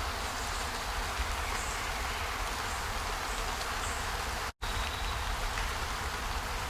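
Steady hiss of water in a nature ambience, with a faint thin high tone near the end. The sound cuts out completely for an instant about four and a half seconds in.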